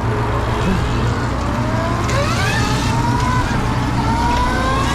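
Electric dirt bike's motor whining, rising in pitch several times as it speeds up, over a steady low rumble.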